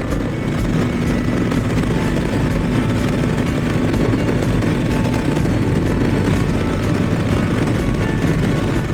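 BMW R1250GS boxer-twin engine running steadily while riding, mixed with wind and road noise. No change in pace.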